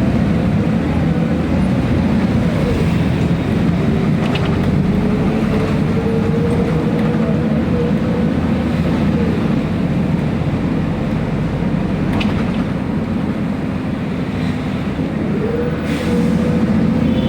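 Ride noise of a city bus: its diesel engine and drivetrain running under way, with a whine that rises as the bus picks up speed and rises again near the end. There are a few brief knocks and rattles.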